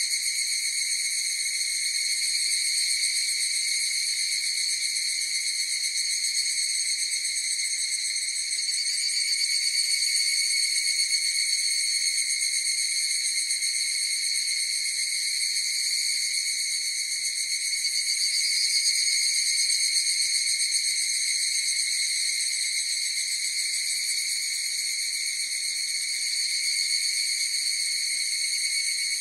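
A chorus of higurashi evening cicadas (Tanna japonensis) calling without a break, a high, steady ringing that swells a little twice.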